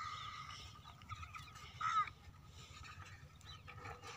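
Short bird calls, the clearest and loudest about two seconds in, over a low steady rumble.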